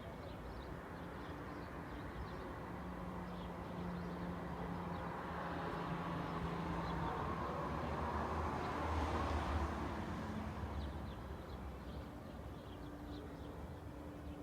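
A car drives past, its tyre and engine noise building to a peak about two-thirds of the way through and then fading away. Small birds chirp in short high notes throughout.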